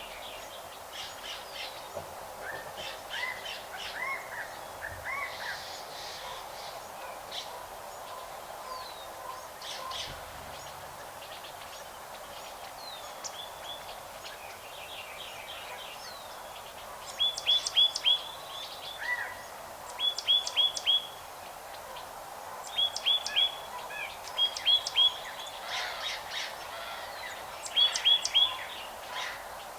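Several birds chirping. In the second half one bird repeats a loud phrase of four or five quick, high notes every two to three seconds.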